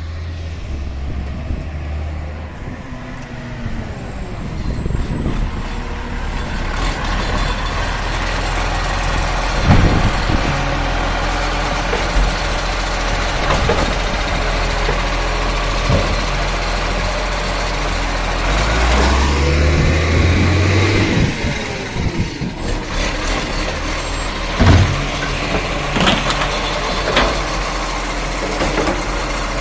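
Garbage truck's diesel engine running, swelling about two-thirds of the way through, with several sharp bangs and clanks scattered through.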